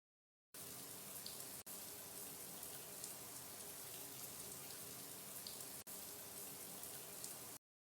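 Faint, steady hiss of running water, broken twice by brief cuts.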